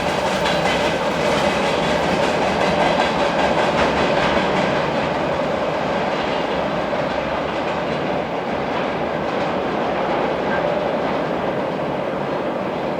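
Freight train wagons rolling past on steel rails, with a steady rumble and the clicking of wheels over rail joints; the higher rattle eases after about five seconds.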